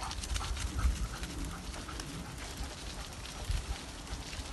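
A dog running, its footfalls making quick irregular ticks.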